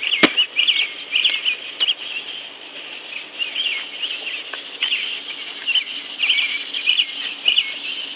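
Small birds chirping: short, squeaky calls repeated about twice a second. There is one sharp click just after the start.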